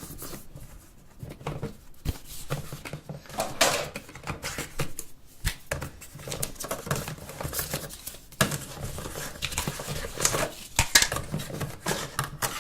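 Phone box packaging being handled: irregular clicks, taps and rustling of cardboard and plastic as the accessories are lifted out of the box.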